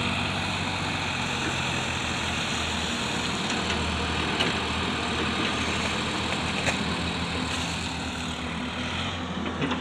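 Heavy machinery engine running steadily with an even low hum, with a couple of faint clicks partway through.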